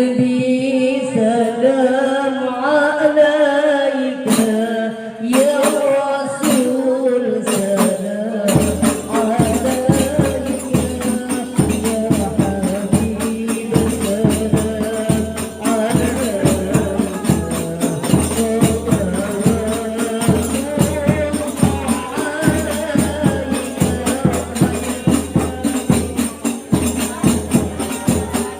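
Women singing sholawat, a devotional song in praise of the Prophet, as a group. The voices open almost alone, then hadroh frame drums with jingles come in about eight seconds in and keep a steady beat under the singing.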